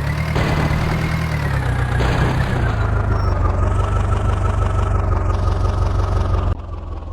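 Heavy diesel engine of a backhoe loader or tractor running steadily, with a whine above the rumble that slowly drops in pitch. About six and a half seconds in the sound cuts abruptly to a quieter engine.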